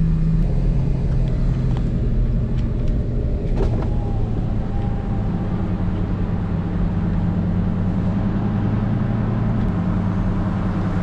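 2007 Lamborghini Gallardo's V10 engine running steadily at low speed, heard from inside the cabin. Its note drops about half a second in and climbs a little again around the middle.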